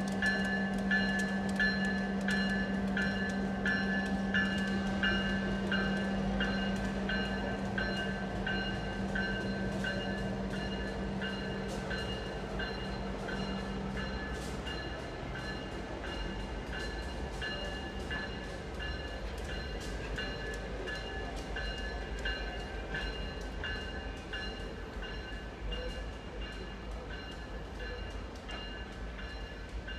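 A train moving with a bell ringing at a steady rhythm of about two strikes a second, over a low rumble. A steady hum stops about halfway through, and the whole sound slowly fades toward the end.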